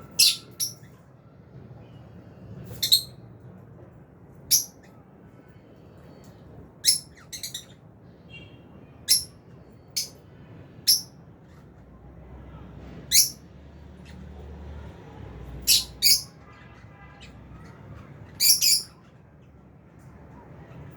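Lovebirds giving short, shrill chirps: about a dozen single or paired calls at irregular intervals, over a faint low hum.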